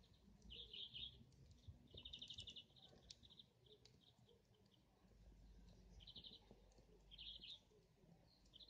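Faint birdsong: small birds chirping in a few short, rapid trilled phrases, with a faint low rumble underneath.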